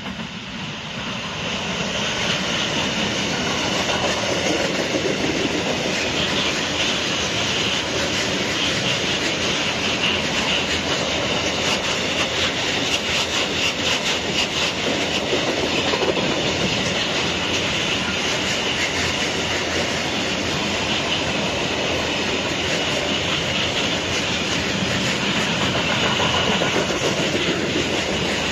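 Freight train of open gondola wagons rolling past close by. The noise rises over the first two seconds as the locomotive comes up, then holds as a steady, loud clatter of the wagons' wheels on the rails.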